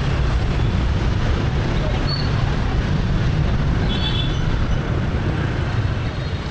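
Steady rumble of a motorbike riding through city traffic: engine and road noise from the rider's position. Two brief high-pitched tones break through about two and four seconds in.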